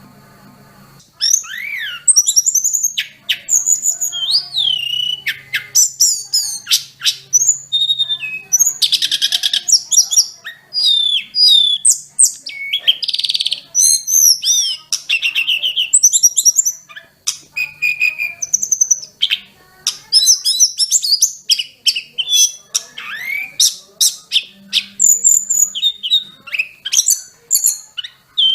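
Sulingan gunung (tledekan gunung, the snowy-browed flycatcher) in full song. It is a fast, varied run of high whistles, sharp chips and short trills that starts about a second in and goes on with only brief pauses.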